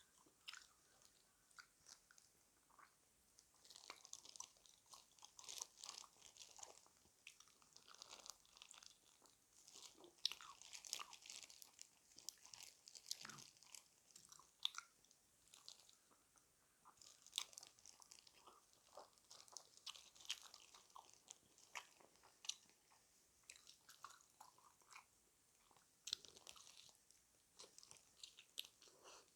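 Quiet crunching and chewing of crispy fried chicken, a string of irregular crackles with denser runs of bites every few seconds.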